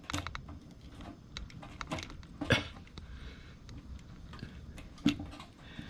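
Scattered small clicks and knocks of hard plastic and metal parts: a fuel line's connector being worked onto the fittings of a motorcycle fuel pump assembly. The sharpest click comes about two and a half seconds in, another about five seconds in.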